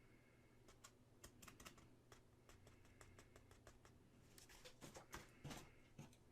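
Faint, irregular light clicks and taps, coming thicker about four to five seconds in.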